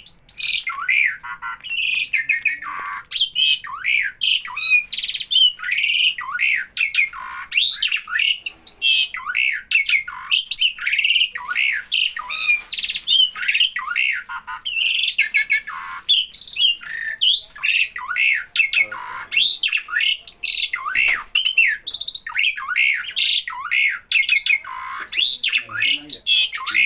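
A jalak (starling) calling nonstop: a rapid, varied stream of loud squawks, chattering notes and whistled glides, the way it calls whenever people are near.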